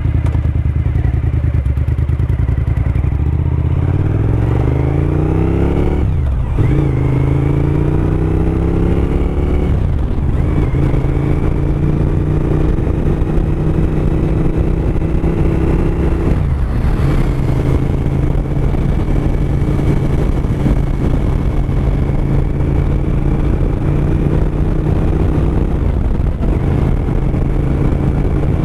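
Suzuki SV1000S 90-degree V-twin engine pulling hard through the gears, its pitch climbing and dropping at three upshifts about 6, 10 and 17 seconds in, then running at a steady cruise.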